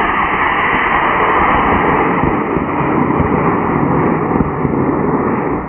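Model rocket motor firing after lift-off: a loud, steady rushing noise that fades near the end as the motor burns out or the rocket climbs away.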